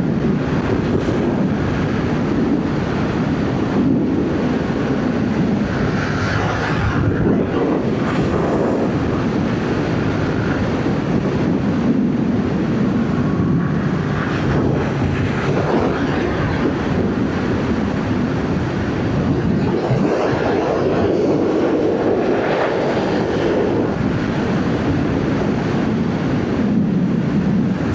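Wind rushing over the microphone of a moving motorcycle, with a Yamaha MT-07's parallel-twin engine, on its stock exhaust, running underneath. The noise swells and eases slowly as the bike rides through corners.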